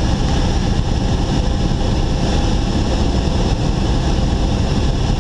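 Steady in-cabin noise of a Cessna 172 gliding on final with its engine at idle: the idling engine and propeller under a constant rush of air.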